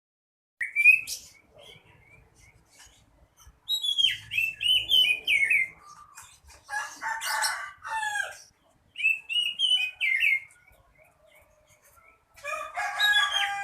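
Oriental magpie-robin singing loud bursts of quick, bending whistled phrases with short pauses between them, mixed with some harsher, rasping notes.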